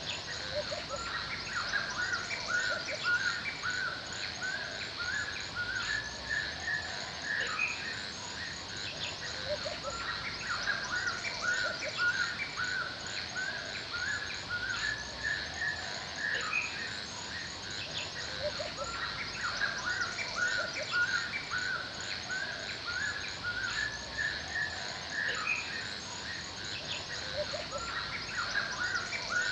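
Forest ambience: many birds chirping in short, repeated calls throughout, over a steady high-pitched insect chorus of fast, even pulses.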